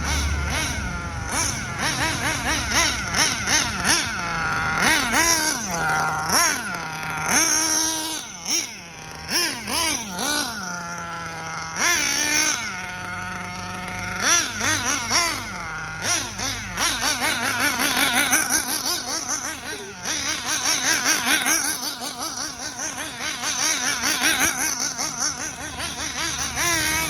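Nitro engine of a Hobao Hyper VS RC buggy revving up and down as the car is driven during engine break-in, its pitch rising and falling over and over.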